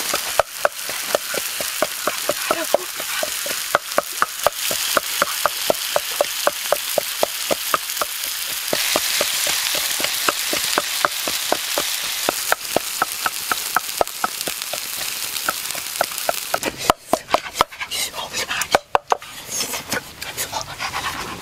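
Octopus sizzling on a hot stone slab over a wood fire: a steady frying hiss with quick regular ticks, about three a second, through most of it, and a few louder knocks near the end.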